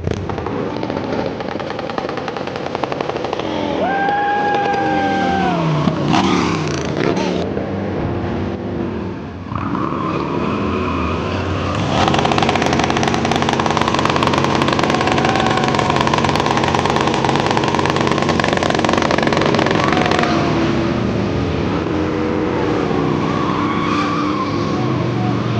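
Stunt motorcycle engines revving hard, their pitch climbing and dropping again and again, with a brief high squeal about four seconds in.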